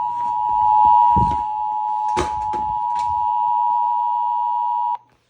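Emergency Alert System attention signal, the steady two-tone alert (853 and 960 Hz) that a TFT EAS decoder sends out as it relays an alert over the radio. It cuts off sharply near the end. A few loud crackles break in around the middle.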